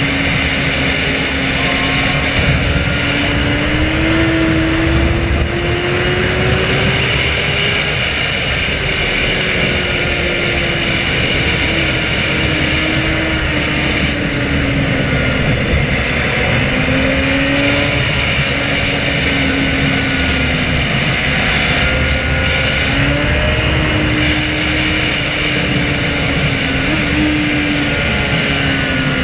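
Inline-four sport motorcycle engine running at speed, its note rising and falling again and again with the throttle and gear changes, under heavy wind noise.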